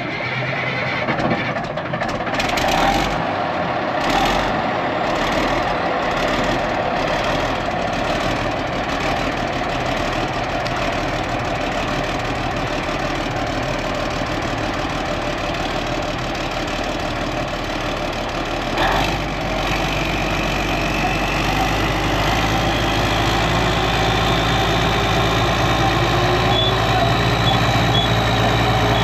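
IH Dresser TD25G crawler dozer's diesel engine starting up suddenly and running steadily. About nineteen seconds in, a deeper hum joins, and a whine then rises in pitch as the engine speeds up.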